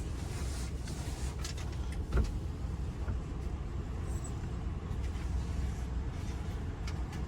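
Car engine idling, a steady low rumble heard from inside the cabin, with a single thump about two seconds in.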